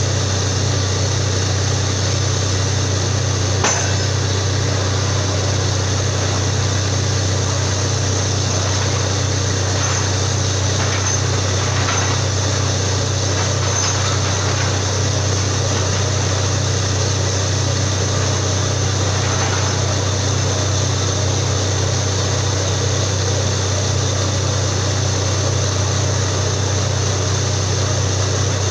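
Borewell drilling rig running steadily with a strong low engine hum. A sharp knock comes about four seconds in, with a few fainter clicks and knocks later.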